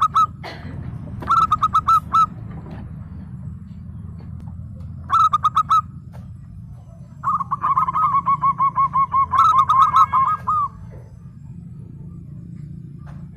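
Zebra dove (perkutut) cooing in bursts of rapid, clipped notes. There are three short phrases, then a longer run of about three seconds past the middle. A steady low hum lies underneath.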